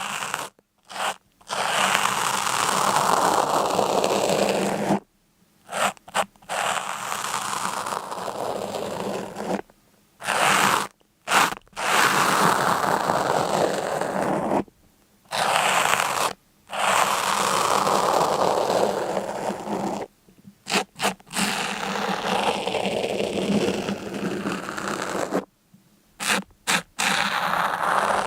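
Repeated scraping strokes, each lasting from about one to five seconds, broken by short silent gaps.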